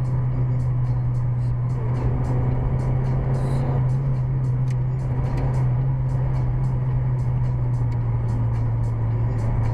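Steady low drone of a vehicle running, heard from inside the cab, with a constant deep hum and faint ticking above it.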